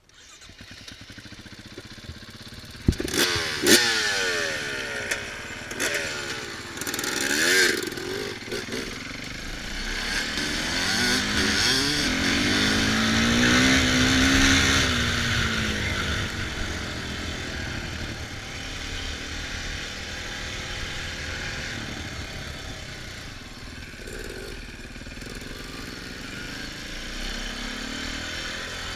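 Dirt bike engine revving through the gears while riding off-road, its pitch climbing and falling repeatedly. A few sharp knocks come in the first several seconds, and the engine climbs to its loudest about halfway through before settling to steadier running.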